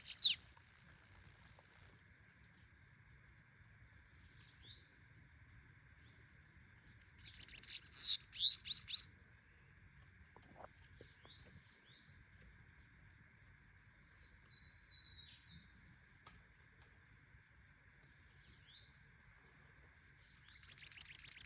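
Bananaquit (sibite) singing: soft, high twittering phrases, broken by two loud rapid trills, one about seven seconds in and one near the end.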